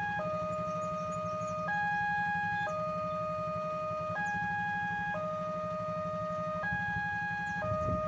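Indonesian railway level-crossing warning alarm sounding a two-tone electronic signal. A lower tone is held about a second and a half, then a higher tone for about a second, repeating steadily to warn that a train is approaching. A steady low engine rumble runs underneath.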